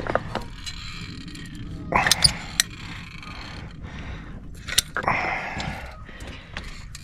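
Caulking gun working a tube of caulk: scattered sharp clicks of the trigger and plunger, with two short scraping, rustling bursts about two and five seconds in.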